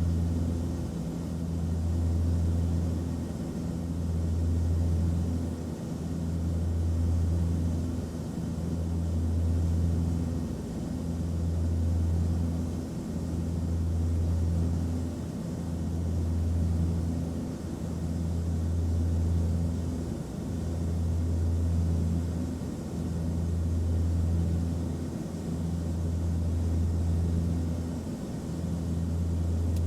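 Steady airplane cabin noise: a low engine drone under an even rush of air, with the hum swelling and fading about every two seconds.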